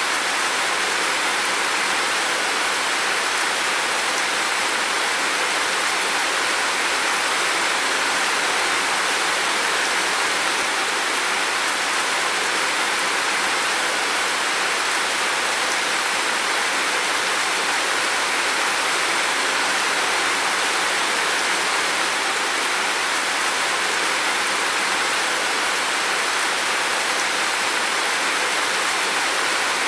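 Heavy rain falling in a steady, unbroken downpour, an even hiss with no individual drops standing out.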